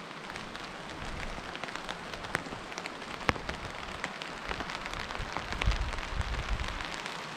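Steady rain falling, with many individual drops ticking sharply over a continuous hiss. A few dull low bumps come about six seconds in.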